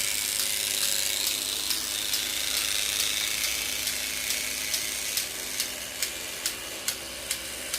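Battery-powered Trackmaster toy train motors running, a steady whirring of small gears with a low hum and regular clicks about twice a second.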